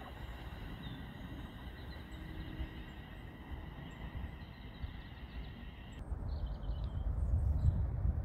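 A faint steady high whine from an approaching electric train over low wind rumble. About six seconds in the whine stops suddenly, and birds chirp while a low rumble grows louder.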